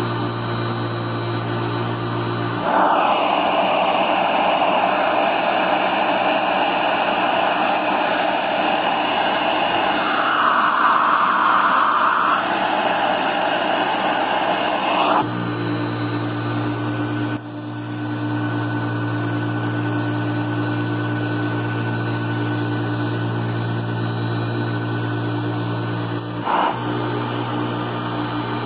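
Hoover Concept One upright vacuum cleaner running with a steady motor hum. From about three seconds in, a louder rush of air rides over the hum for roughly twelve seconds as the cleaner sucks up spilled flour, then it drops back to the plain running hum.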